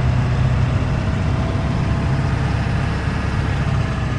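Ford 7.3 Powerstroke turbo-diesel V8 running steadily with its muffler cut off.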